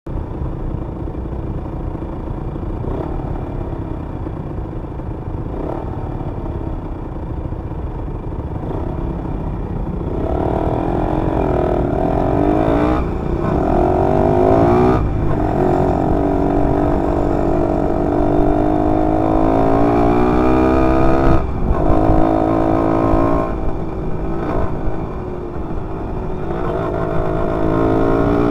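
Motorcycle engine running under a steady low rumble. From about ten seconds in, its note climbs in pitch again and again, each climb broken off by a short gap, then a dip and a fresh climb near the end.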